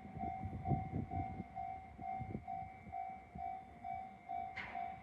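Freight wagons' wheels clattering over rail joints, the knocks thinning out after about two and a half seconds as the train passes. An electronic warning tone pulses about twice a second throughout.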